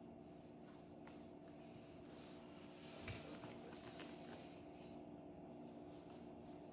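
Near silence: a faint steady hum, with light rustling and a single soft knock about three seconds in.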